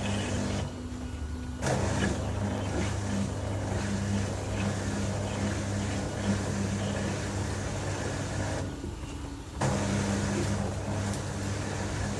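LG TurboDrum WT-R852 top-loading washing machine running its drum motor with a steady hum. The motor stops for about a second twice, near the start and about nine seconds in, and comes back abruptly each time as the drum changes direction mid-cycle.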